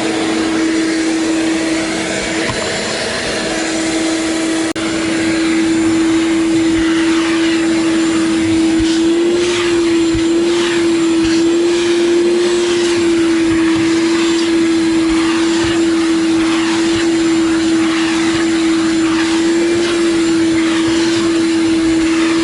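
Shop vac running with a steady motor whine and a rush of air as it vacuums the car's front floor carpet. After about five seconds the suction sound grows a little louder and keeps shifting as the nozzle is worked back and forth over the carpet.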